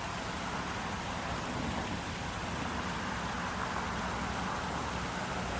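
Water from a small waterfall pouring steadily over rocks, an even rushing hiss with no breaks.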